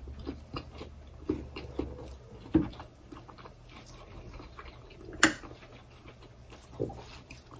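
Close-up eating sounds: soft chewing with small scattered mouth clicks, and a few sharper clicks, the loudest about five seconds in.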